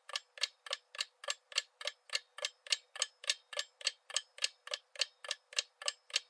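Clock-ticking sound effect used as a countdown timer, even ticks about four a second.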